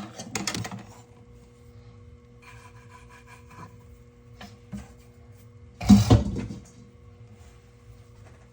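Rolling pin working bake dough on a board: knocks and rubbing strokes, with a louder thump about six seconds in, over a faint steady hum.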